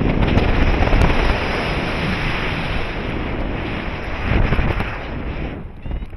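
Strong wind buffeting the microphone in a steady rush that drops away sharply near the end.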